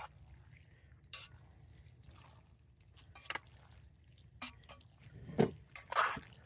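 Spaghetti being stirred into a creamy Alfredo sauce: scattered wet squishing and dripping sounds with a few short sharp taps, the loudest about five and six seconds in.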